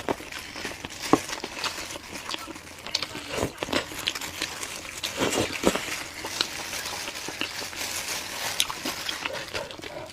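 A person eating noisily: irregular wet chewing, smacking and sucking sounds with scattered short clicks.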